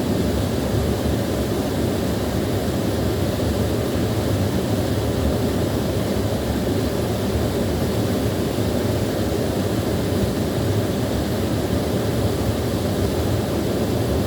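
Small waterfall: water pouring and splashing in a steady, low rush.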